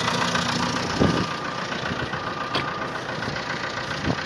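Truck engine running steadily, with a short thump about a second in.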